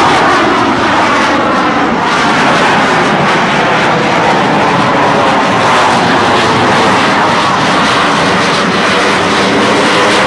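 Loud, continuous jet noise from US Navy Blue Angels F/A-18 Hornets in flight, with a rushing roar whose tone slowly bends up and down as the jets pass.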